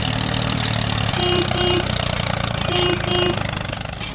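An engine running steadily, with a horn sounding two short beeps twice over, about a second in and again near three seconds.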